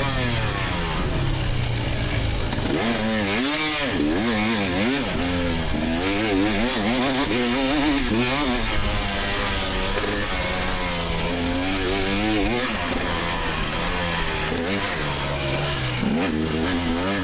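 A 2024 GasGas EX300 two-stroke dirt bike engine running hard. Its pitch rises and falls again and again as the throttle is worked.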